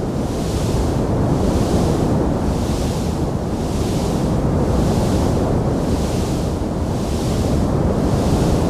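Wood fire burning in a fireplace: a steady, dense rushing rumble of flames, with a high hiss that swells and fades about once a second and no distinct pops standing out.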